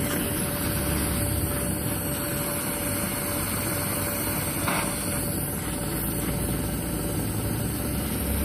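Electric hot-air gun blowing steadily: a constant rush of air with a faint steady whine. It is heating lead solder on a Zippo lighter's top hinge.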